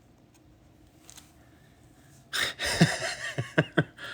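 A man's loud breathy exhalation, starting about two seconds in and breaking off into three short falling grunts.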